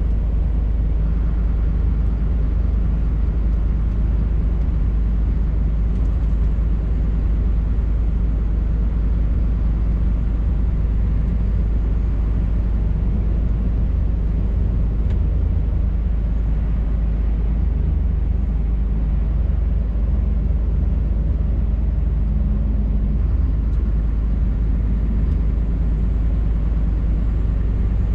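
Scania R580 truck's V8 diesel engine running steadily under way, a continuous low drone that holds an even pitch and level throughout.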